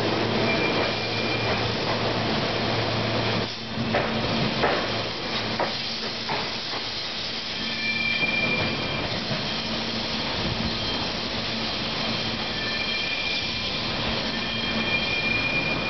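Rotem Silverliner V electric multiple-unit train pulling out of a station. A steady electrical hum comes from the cars passing close by and stops about three and a half seconds in. A few knocks of wheels on the rails follow, then faint, short high-pitched squeals over the rumble of the departing train.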